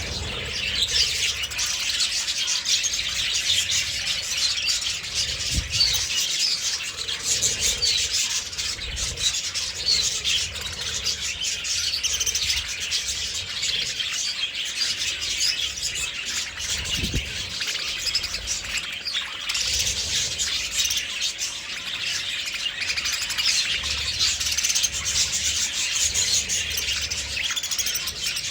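Many budgerigars chattering together, a continuous dense mix of short chirps and warbles.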